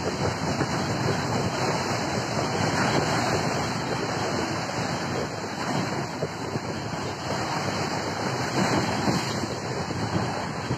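Strong wind buffeting the microphone over heavy waves surging and splashing, a steady rushing noise that swells and eases.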